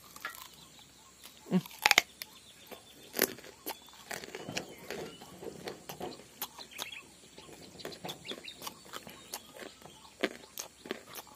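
Close-up chewing and lip-smacking on a soft piece of pumpkin, a run of small wet mouth clicks with two sharper clicks about two and three seconds in. Chickens cluck now and then.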